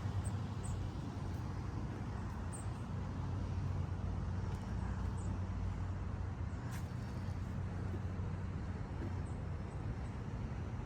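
Street traffic: a steady low engine hum from a vehicle running close by, over a continuous wash of road noise, with a few faint ticks and one sharper tick about two-thirds of the way through.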